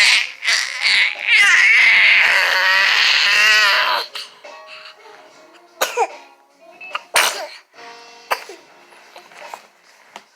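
Baby squealing loudly in a high, wavering voice for about four seconds, then giving three short, sharp cough-like bursts.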